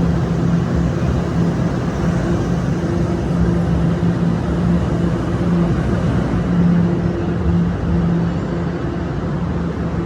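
TTC Line 1 subway train running through the station: a steady rumble with a low hum that fades in and out.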